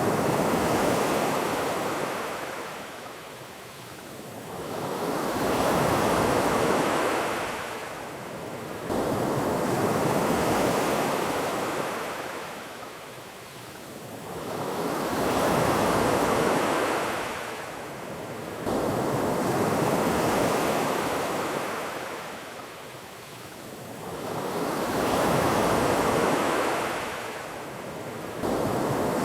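Ocean surf washing ashore in about six slow swells that rise and fall, each a wash of noise, with a couple of abrupt jumps in level.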